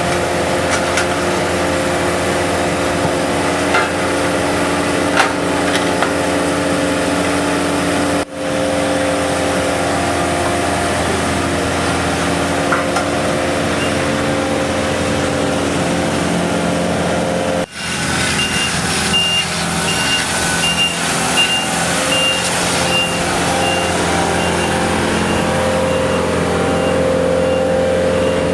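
The engine of heavy road-paving equipment running steadily, with the sound breaking off briefly twice. About two-thirds of the way in, a reversing alarm starts beeping about twice a second and grows fainter toward the end.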